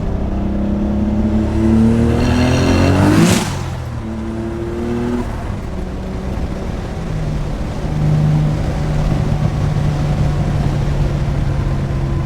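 Nissan 300ZX twin-turbo V6 (VG30DETT) under hard acceleration on boost, its pitch rising for about three seconds. A loud rushing hiss builds over the top of the pull from the open-dumped twin wastegates, then cuts off sharply about three and a half seconds in as the throttle lifts. After a short second pull the engine settles to a steady drone while cruising.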